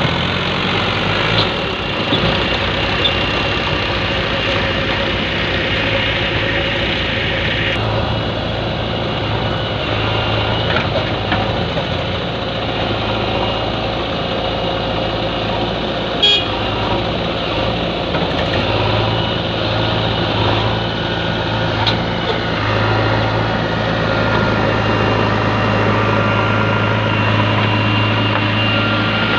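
Diesel engines of a backhoe loader and a tractor running steadily with a low hum that gets stronger past the middle, with a few brief knocks.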